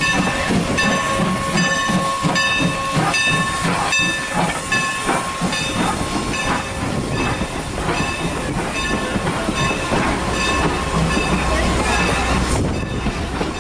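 A train running, with a steady rhythm of clicks from the wheels over the track joints and a steady whine; the clicking thins out near the end.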